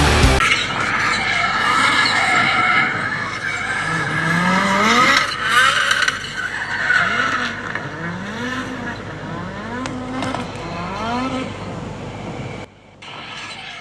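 Drift car's engine revving hard, its pitch climbing and falling in about five repeated swells, over tyre squeal as the car slides. Rock music cuts off right at the start.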